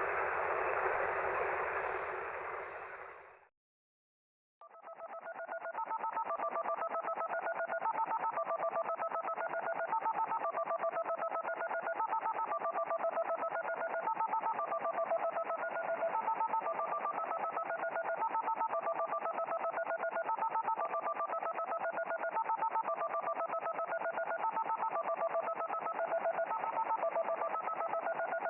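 Shortwave radio noise cuts off about three seconds in; after a short gap an unidentified shortwave signal of telephone-like tones starts. A few tones step between low and high pitches in a repeating pattern over a buzzy background.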